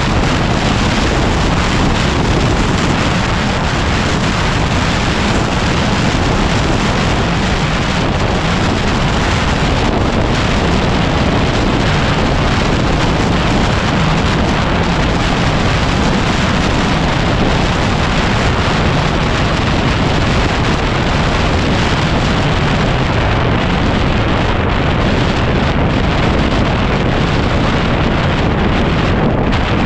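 Heavy wind buffeting on the microphone of a camera on a moving motorcycle: a loud, steady rush that covers the sound of the bike.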